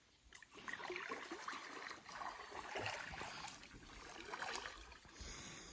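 Faint, irregular water splashing and trickling around a small boat on the river.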